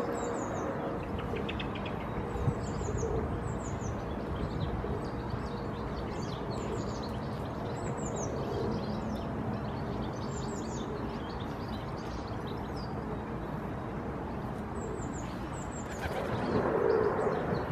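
Small birds giving many short, thin, high chirps that slide downward, scattered throughout, over a steady low background rumble of distant traffic. The rumble swells louder near the end.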